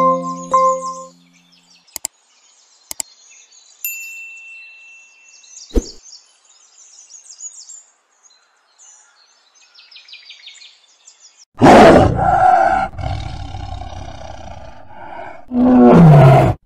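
Faint birds chirp after a short chime fades out. About twelve seconds in a lion roars loudly and the call tails away over a few seconds, and a second roar near the end falls in pitch.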